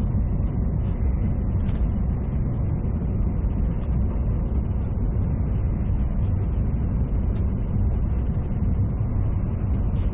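Inside a JR East E657 series electric limited express train while it runs: a steady low rumble of running noise.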